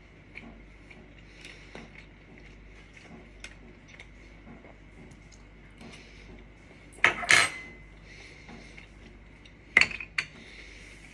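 Dishes and cutlery clinking: faint small clicks, then a loud clatter with a short ring about seven seconds in, and two sharp clinks near the end.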